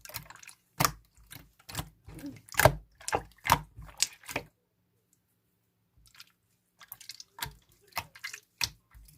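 Blue clear slime being squished and pressed in the hands, making irregular wet clicks and pops, with a pause of about a second and a half near the middle.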